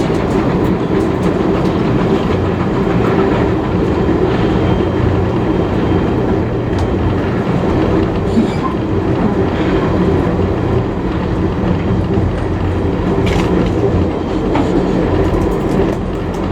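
Heritage railway carriage running at speed: a steady, loud rumble of wheels on the rails, with a few sharp clicks from rail joints.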